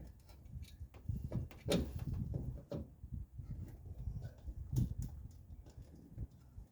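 Irregular knocks and light metal clinks from hand-threading nuts onto the front strut's top-mount studs, with sharper knocks at about two seconds and near five seconds.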